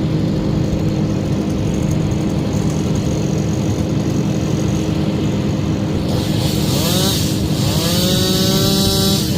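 Tree-work machinery engines running: a steady engine drone throughout, joined about two-thirds of the way in by a smaller engine revving up twice, its pitch rising sharply each time.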